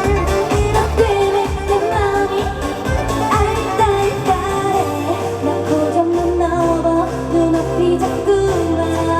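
Trot song played loud over a PA, a woman singing the melody over accompaniment: a driving beat in the first few seconds, held bass notes later.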